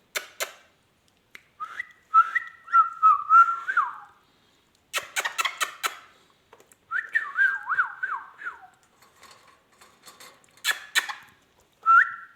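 Indian ringneck parrot whistling: three bouts of clear whistled phrases with wavering, sliding pitch, broken up by sharp clicking sounds.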